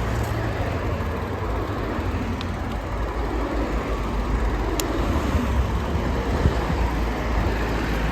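Steady rumbling road and wind noise picked up by a phone microphone while riding a bicycle along a street, with one faint click about five seconds in.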